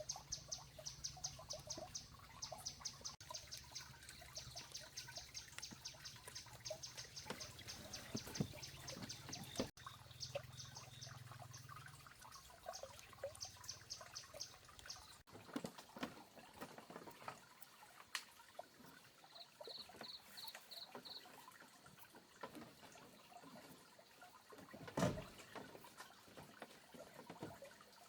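Faint trickling and dribbling of water, with rapid, evenly repeated insect chirping through the first half. A single louder knock comes near the end.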